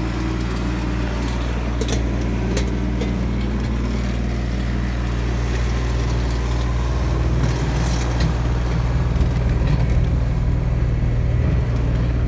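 Tractor engine running steadily while the tractor is driven, heard from on board, growing a little louder and rougher about halfway through, with a couple of light clicks early on.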